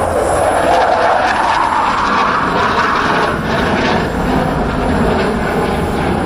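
Dassault Rafale fighter jet flying overhead in a display, its twin jet engines giving a loud rushing noise. The pitch rises over the first three seconds, then eases a little.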